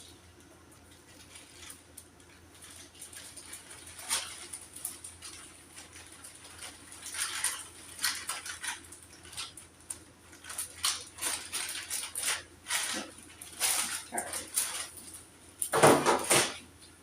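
Irregular rustling and light clattering of school supplies and packaging being handled and packed, with a louder crinkle-and-knock cluster near the end.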